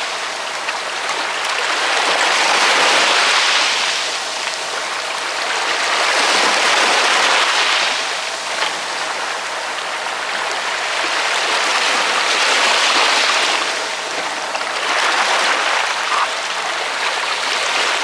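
Ocean waves breaking and washing on the shore in a steady hiss that swells and eases every few seconds, loudest about three seconds in, again around seven and thirteen seconds in.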